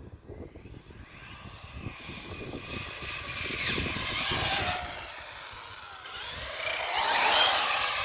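Hobbytech NXT RC buggy making two high-speed passes, its high-pitched motor note rising as it approaches and falling away, the second pass louder and closer near the end.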